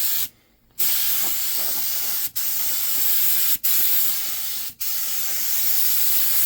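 Compressed-air paint spray gun spraying paint in a steady hiss, with the trigger let off for about half a second near the start and then for three brief moments.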